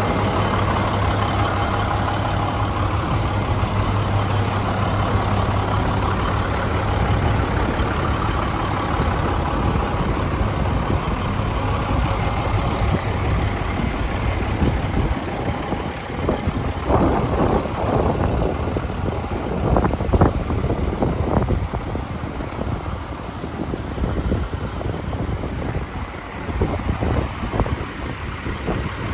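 A 7.6-litre IHC diesel engine in an International 4300 truck idling steadily. In the second half a few brief knocks or bumps come over it.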